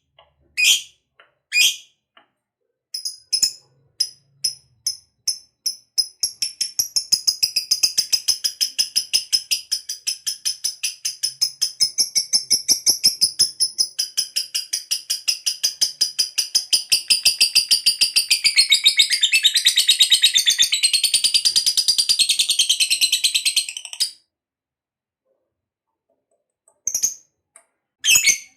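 Lovebird ngekek: a long, rapid, chattering trill of sharp high notes. It starts with a few separate calls, then builds into an unbroken trill lasting about eighteen seconds that stops suddenly. A couple of short calls follow near the end.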